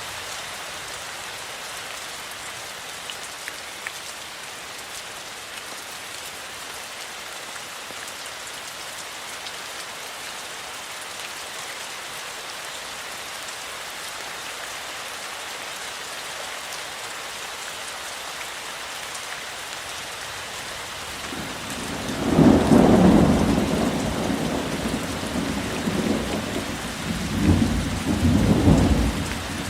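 Steady rainfall, then in the last third a long roll of thunder rumbles in, loudest at first, fading, and swelling again briefly near the end.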